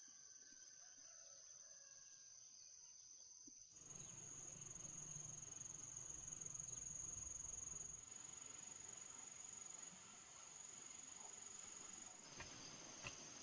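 Faint steady, high-pitched chorus of insects, with a soft background hiss that grows about four seconds in and a few faint clicks near the end.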